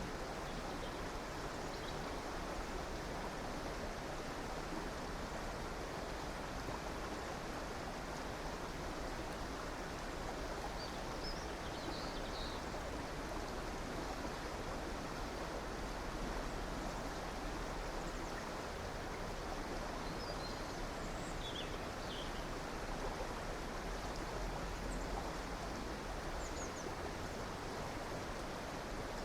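River water rushing steadily, with a few faint, short bird chirps now and then above it.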